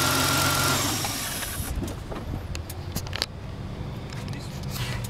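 Kia Carnival 2.5-litre petrol V6 idling on a running test, a steady hum with a high whine. About a second in the whine stops and the sound drops, leaving a fainter engine hum with a few light clicks.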